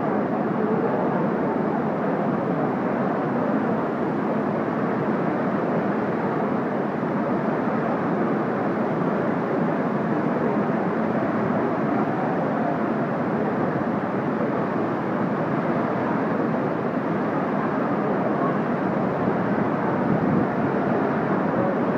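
A violent storm, heard as a loud, steady rushing noise with no breaks.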